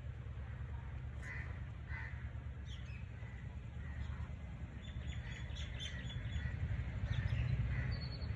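Birds calling in short, scattered calls from about a second in to near the end, over a steady low rumble that grows a little louder toward the end.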